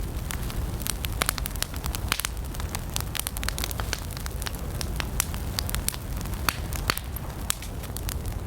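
Wood campfire burning, with frequent irregular sharp crackles and pops over a steady low rumble of flames.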